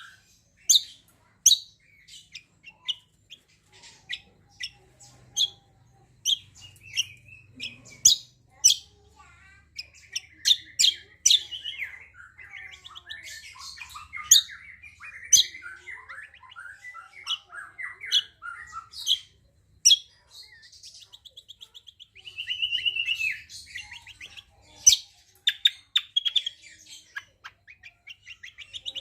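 A songbird in full song: a busy, varied song of sharp, high chirps, one or two a second, with warbled runs in the middle and a fast trill about two-thirds of the way through.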